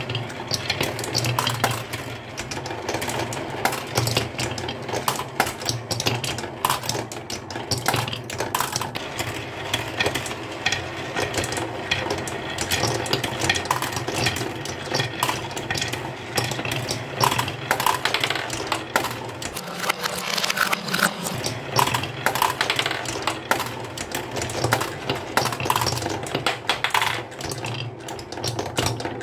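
Many marbles rolling and clacking down a wooden HABA slope marble run: a dense, continuous patter of small hard clicks, over a steady low hum.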